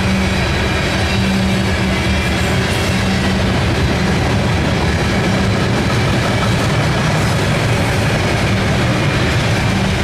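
Freight train rolling past on the mainline: a loud, steady rumble of railcar wheels on the track, with a low droning hum that fades in and out.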